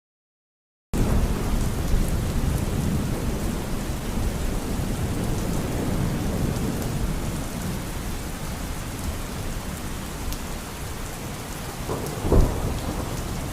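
Rain falling steadily with low rumbling thunder, starting abruptly about a second in; a louder rumble swells briefly near the end.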